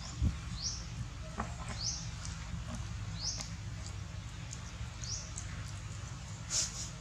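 A bird giving short, high, rising chirps, repeated every second or two, over a steady low rumble of background noise; one sharper, louder chirp comes near the end.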